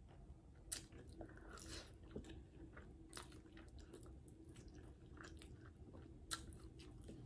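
Faint, close-miked mouth sounds of a person eating: scattered wet clicks and smacks of chewing and biting, over a faint steady low hum.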